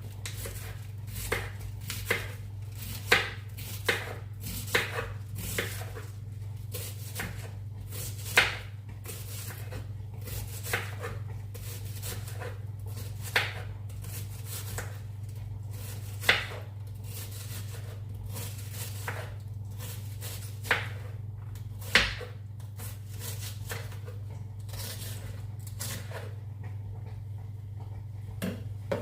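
Knife chopping on a cutting board: irregular sharp knocks, roughly one every second or so, thinning out near the end, over a steady low hum.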